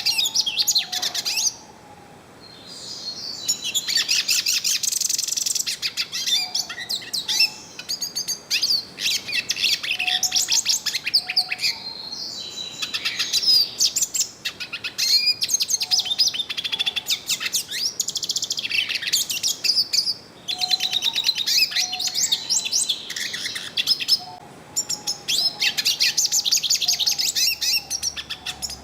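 Yellow-faced siskin singing: long, rapid twittering phrases of several seconds each, high-pitched, broken by short pauses.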